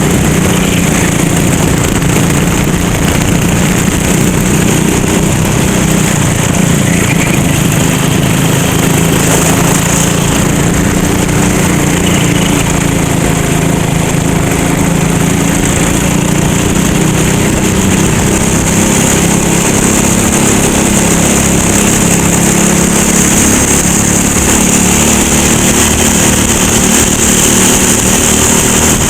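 Go-kart engine running hard and continuously, its pitch rising and falling with the throttle, over a steady high hiss.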